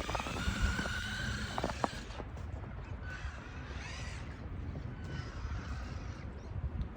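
Electric motor of a Traxxas RC car whining at a steady pitch, dropping away after about two seconds, with a few sharp clicks. Fainter whines that rise and fall follow.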